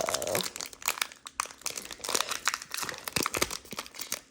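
Foil Pokémon booster-pack wrappers crinkling and crackling as they are handled and torn open, in a dense run of irregular crackles.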